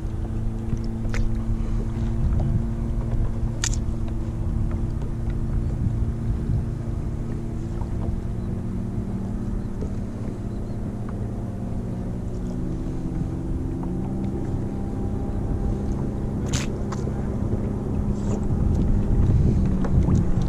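A boat's engine drones steadily with its pitch drifting slightly, over wind rumbling on the microphone. A few sharp clicks come through, about a second in, near four seconds, and around two-thirds of the way through.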